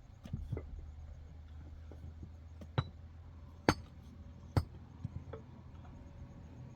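Three sharp clinking knocks about a second apart, hard object struck against hard object, with a few lighter taps before and after.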